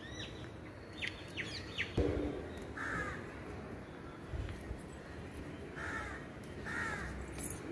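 A bird calling in short calls: one about three seconds in and two close together near the end. A soft low thump about two seconds in, likely from handling the plant.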